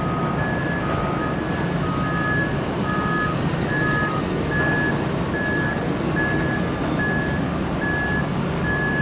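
Two vehicle reversing alarms beeping at different pitches, about one beep a second each; the lower-pitched one stops about four seconds in while the higher one keeps going. A steady low rumble runs underneath.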